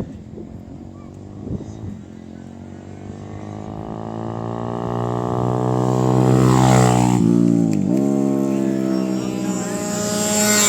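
Racing motorcycle engine on a track pass: the engine note climbs steadily in pitch and gets louder, peaks about two-thirds through, then drops sharply in pitch. Near the end the engine note rises again.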